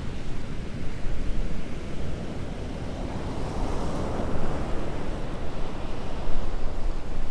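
Storm-driven surf washing up the beach, swelling as a wave surges in around the middle, over strong wind buffeting the microphone with a low rumble.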